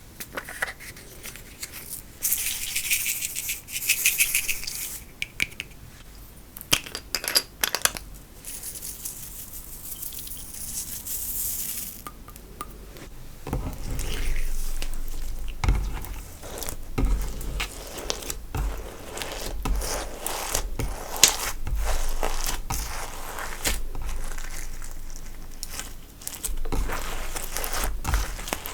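Slime being worked by hand, with dense crackling, clicking and crinkling. It has a hissy, high crinkle at about 2 to 5 seconds and again at about 9 to 12 seconds, then a fuller, lower crackling and popping from about 13 seconds on.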